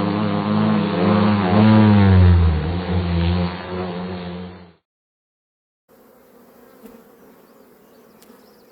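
A loud engine-like drone that rises and falls in pitch, cut off sharply about four and a half seconds in. After a second of silence, a honeybee colony hums steadily and quietly.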